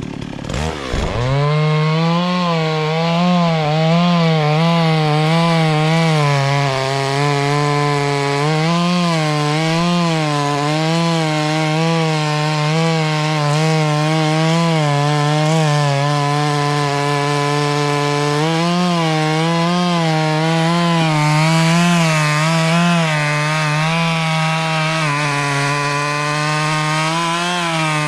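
Two-stroke chainsaw revving up about a second in, then running at high speed through wood. Its pitch dips and recovers over and over as the chain bites and the engine labours under load.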